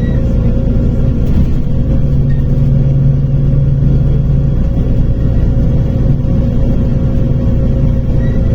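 A MAZ-105 articulated city bus on the move, its engine and drivetrain running with a steady low drone. The lowest engine tone drops away about halfway through.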